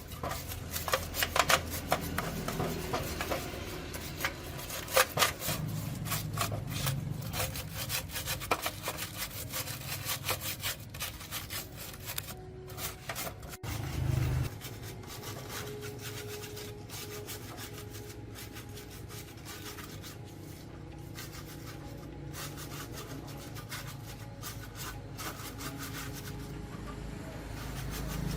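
Irregular rubbing and scraping strokes, like filing, sanding or scrubbing a part by hand. A little past halfway the sound changes abruptly to a quieter, steadier noise with only occasional scrapes.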